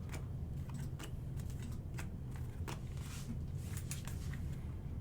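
Faint, irregular clicks and ticks of trading cards in plastic sleeves being handled and flipped through, over a low steady hum.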